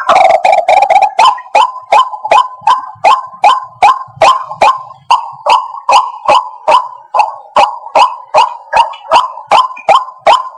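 White-breasted waterhen's call: a loud train of sharp, repeated notes, about two and a half a second, after a denser run of calls in the first second.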